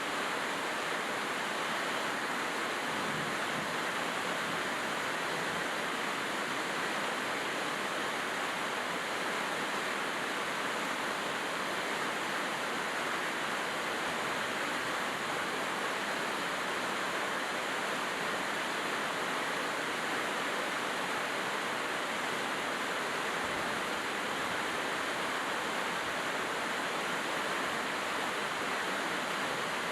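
Steady heavy rain falling, an even hiss with no break or change in level.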